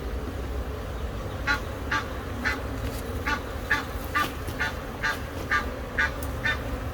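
A goose honking over and over in short calls, about two a second, starting about a second and a half in, over a steady low rumble.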